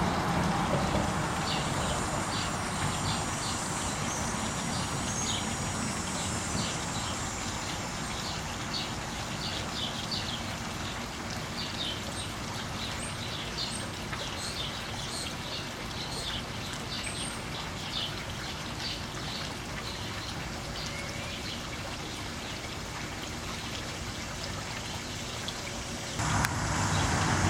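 Small birds chirping repeatedly in short, high calls, a few every second, over a steady background hiss.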